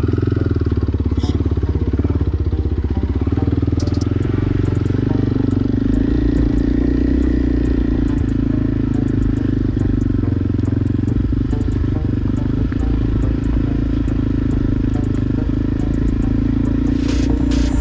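Motorcycle engine running steadily under way, with a few light clicks near the end.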